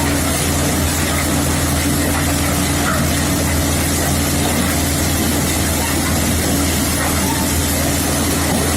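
Tractor diesel engine running steadily at an even speed, a constant drone with no change in pitch.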